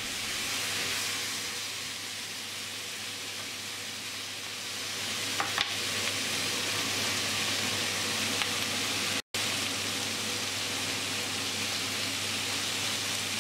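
Sliced ribeye steak with peppers, onions and mushrooms sizzling steadily in a hot grill pan, with a couple of faint clicks about halfway through and a momentary cut in the sound a little later.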